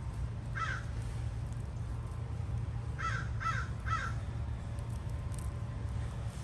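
A bird calling with short, harsh calls: one call, then about two seconds later three in quick succession, over a steady low rumble.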